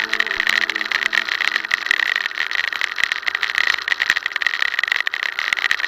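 Road bike on a fast descent: steady wind and road rush on the camera's microphone with a continual clatter of small rattles and knocks from the bike and camera mount over the road surface.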